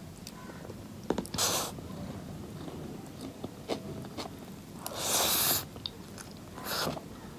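Close-miked eating sounds: mouth clicks and smacks while chewing, with three short airy hisses, the loudest and longest about five seconds in.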